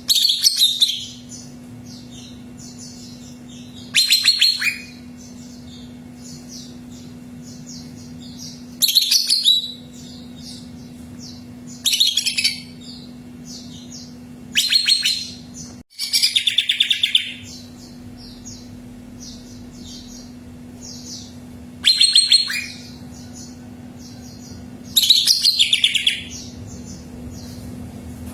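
Cucak ijo (greater green leafbird) singing: loud, rapid, high chattering phrases of about a second each, repeated every three to five seconds, with softer chirps in between. A steady low hum runs underneath.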